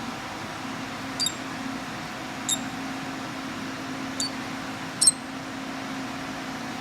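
Starling hatchling chirping: four short, high cheeps spread about a second or so apart, the last one the loudest, over a steady low hum.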